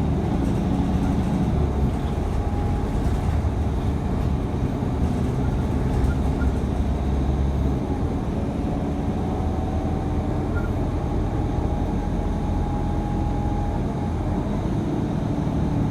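Steady running noise of a TTC city bus heard from inside the cabin: a continuous low rumble with a faint engine drone that eases slightly about halfway through.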